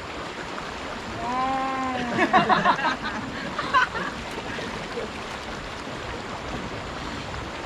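Steady rush of flowing river water. Voices call out briefly between about one and three seconds in, with a short call near four seconds.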